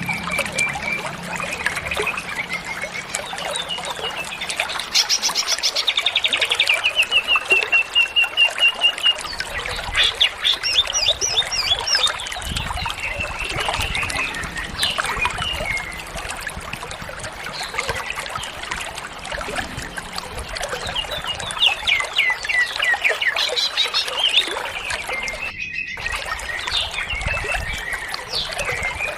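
Cucak ijo (green leafbird) singing a long, almost unbroken song of fast trills and sweeping whistles, full of phrases mimicked from other birds. The song cuts out briefly about 26 seconds in.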